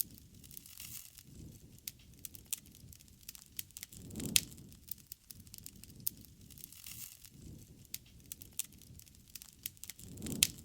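Wood campfire burning, with frequent sharp crackles and pops over a low rumble that swells twice. The loudest pop comes about four seconds in.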